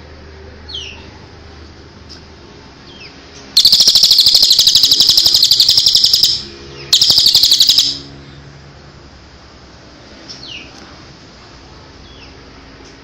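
A songbird calling: scattered short, falling chirps, broken about three and a half seconds in by a loud, very rapid trill lasting nearly three seconds, then a second, shorter trill of about a second.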